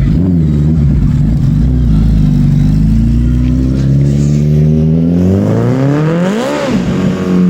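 Motorcycle engine running steadily, then revved hard once near the end: the pitch climbs for about a second and drops sharply back.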